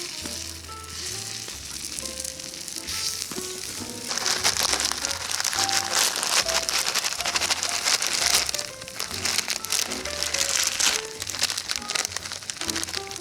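Takoyaki frying in a cast-iron takoyaki pan: a crackly sizzle that grows much louder about four seconds in and eases off a couple of seconds before the end. Background music with a steady bass line plays throughout.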